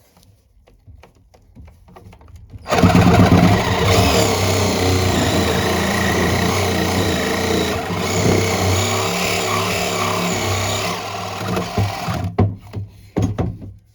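Cordless power saw cutting through an old thick metal pipe, starting about three seconds in and running steadily for about ten seconds before stopping, followed by a few short knocks.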